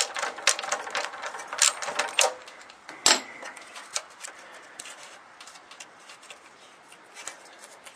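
Ratchet and spark plug socket clicking in quick strokes as a spark plug is loosened, with one sharper knock about three seconds in. The clicks then thin out to a few faint ticks.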